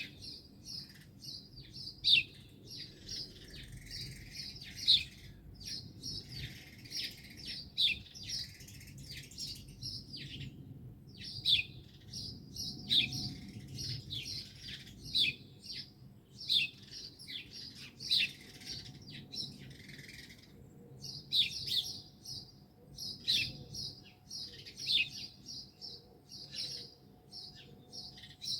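Songbirds chirping and singing in quick, overlapping high phrases with short sharp notes: a busy morning chorus.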